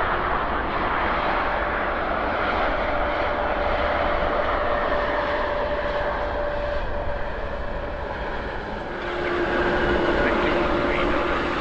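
Jet engines of a Boeing 787-9 airliner on its landing, with a steady whine over dense engine noise. About nine seconds in the sound grows louder and a lower steady tone takes over.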